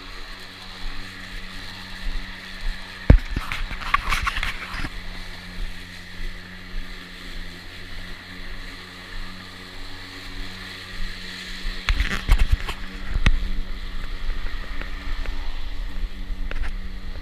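EGO battery lawn mower running with its blade spinning, a steady electric hum and whir, with several sharp knocks and rattles about three to four seconds in and again about twelve to thirteen seconds in.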